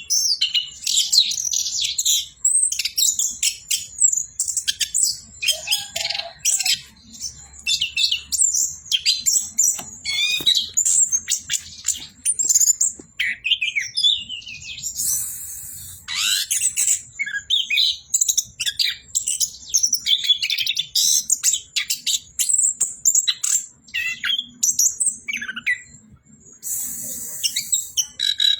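Chestnut-capped thrush (anis kembang) singing a long, continuous run of fast, varied, high-pitched phrases. Two short bursts of hiss cut in, about halfway through and near the end.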